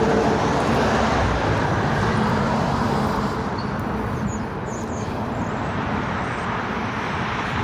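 Steady hum of road traffic, with a few faint, short bird chirps about halfway through.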